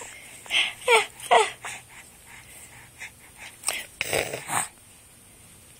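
Baby straining to make sounds: a breathy huff, then two short squeaky cries that each fall in pitch about a second in, and a few breathy huffs around four seconds in.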